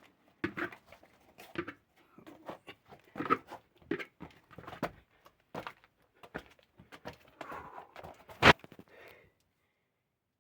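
Irregular scuffing, rustling and knocks of a person clambering over rock in a cramped cave, with one sharp, loud knock near the end before the sound cuts off.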